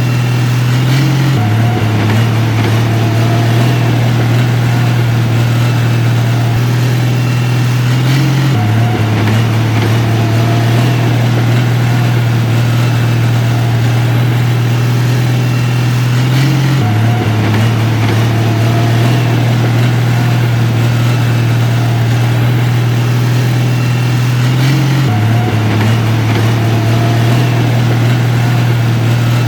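Diesel engine of heavy earthmoving equipment running steadily, a loud low drone whose pitch shifts slightly about every eight seconds.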